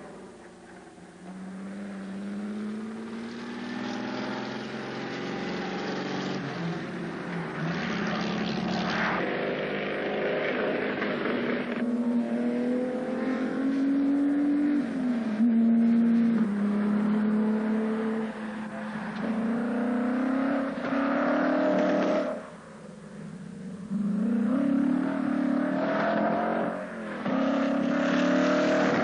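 Sports car engine accelerating hard, its note climbing and falling back again and again, with a brief lull about three-quarters of the way through.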